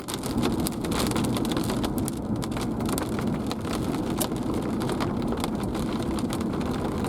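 Heavy thunderstorm rain falling steadily, many small drop ticks over a low, even rumble.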